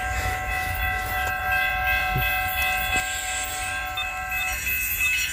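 Norfolk Southern freight locomotive's air horn sounding one long held chord over the low rumble of the passing train, with one note dropping out near the end.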